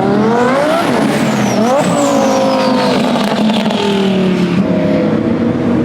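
A car engine accelerating hard, its pitch climbing and dropping twice as it shifts up through the gears, then holding a steadier note that slowly falls away.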